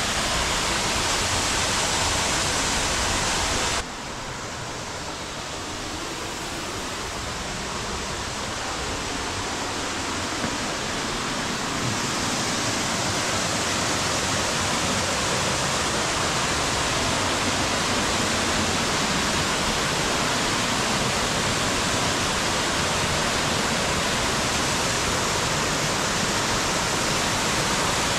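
Rush of the Upper Düden Falls waterfall, a steady roar of falling water. It drops suddenly about four seconds in, then builds back up gradually.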